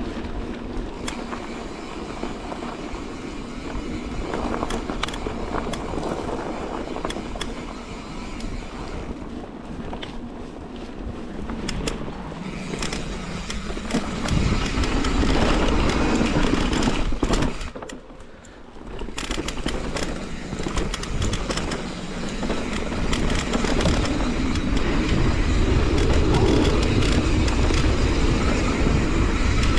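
Mountain bike descending a trail: constant rumble of tyres on dirt and gravel, with wind on the camera and small rattles and clicks from the bike. It grows louder about halfway through and drops off briefly soon after, then resumes.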